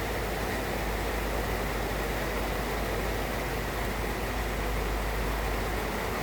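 Heavy rain falling steadily, an even hiss with no breaks, over a steady low rumble.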